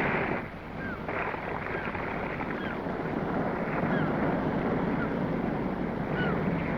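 Seawater washing and wind noise on the microphone, with short high chirping calls repeating every second or so.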